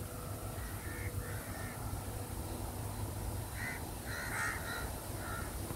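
Birds calling in a series of short repeated calls, thickest about four seconds in.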